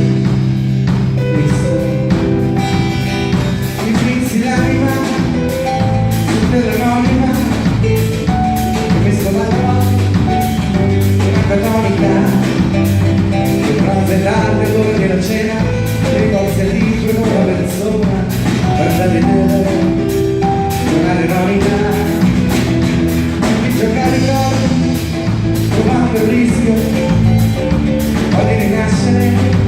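Live reggae band playing: a steady drum-kit beat under a prominent bass line and guitar.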